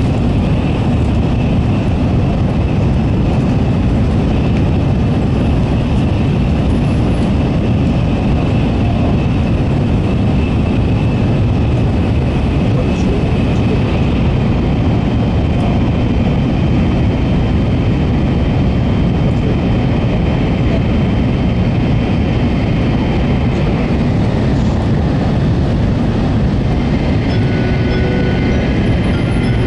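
N700-series Shinkansen running at speed, heard from inside the car: a steady low rumble of wheels, rails and air, with a faint high whine above it.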